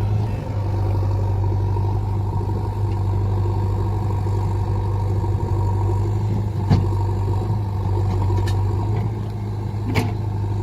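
Heavy diesel engine running steadily with a deep, even hum, and two short sharp knocks, one near the middle and one near the end.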